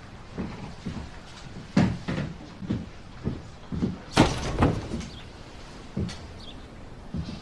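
A series of knocks and thumps, like a door being opened and shut, with the sharpest ones about two seconds and four seconds in.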